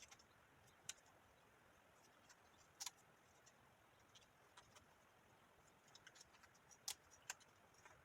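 Near silence broken by faint, scattered clicks and taps of cardstock being handled, with a few sharper ticks about a third of the way in and two more near the end.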